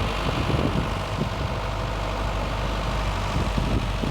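Truck engine running at low speed with a steady low hum, with occasional knocks and rattles.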